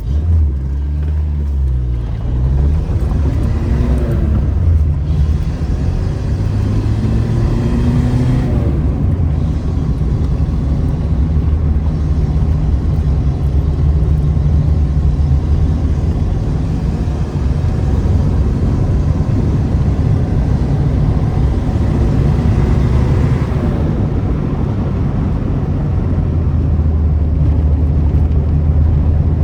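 Renault car's loud exhaust running with a deep low rumble, blipped up and down in revs several times in the first third and once more about three quarters through.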